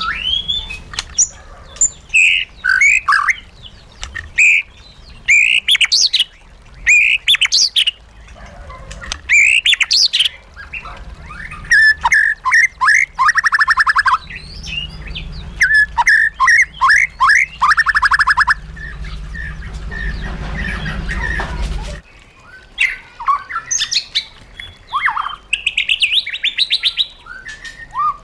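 White-rumped shama singing a varied song of loud whistles, slurred phrases and rapid trills. A low hum lies beneath the song and stops abruptly about three-quarters of the way through.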